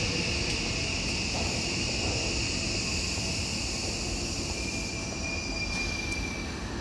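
Seibu 2000 series electric train running, heard from inside the car: a steady rumble of wheels on rail with a high ringing. About five seconds in, a thin high tone sounds for about a second and a half.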